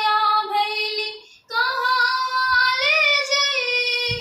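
A girl singing a Bhojpuri farewell (bidaai) folk song, with no instruments heard. She sings a long held note that fades away, then after a short breath another long, drawn-out phrase.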